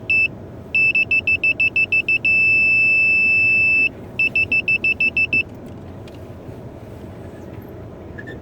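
Car's reverse parking-sensor warning: rapid high beeps, about seven a second, that merge into one continuous tone for about a second and a half, then rapid beeps again before stopping, which tells of an obstacle close behind while reversing. Under it runs the low steady rumble of the car's engine heard inside the cabin.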